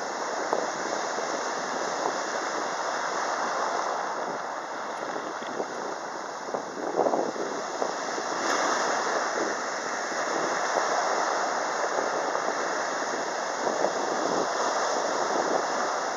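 Sea surf washing onto the beach, a steady rush that swells and eases as waves break, with wind buffeting the microphone.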